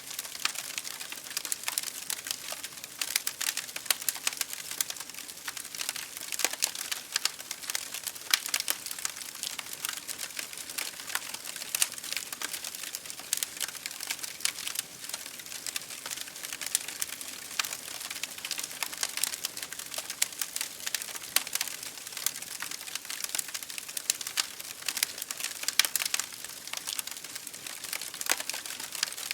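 Wood fire crackling in a fireplace, with dense irregular pops and snaps over a steady hiss of rain against a window.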